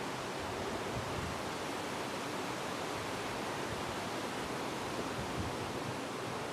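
Steady rushing of wind, with faint low buffets about a second in and again near the end.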